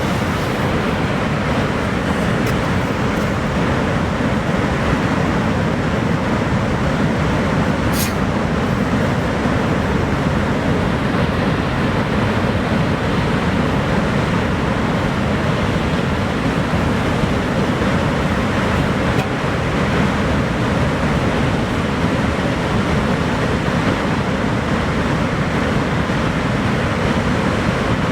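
Niagara Falls' steady, loud roar of falling water, a deep even rush with no rhythm, and one brief tick about eight seconds in.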